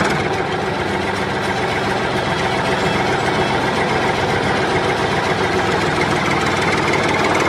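Small engine of a homemade mini tractor running steadily at a constant speed, loud and even throughout.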